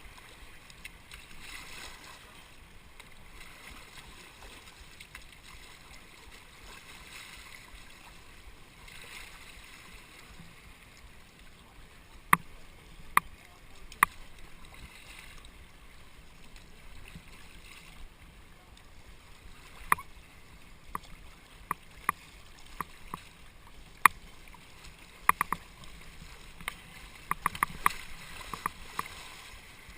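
Kayak on a river: a steady rush of water, with scattered sharp knocks and clicks that come thicker near the end.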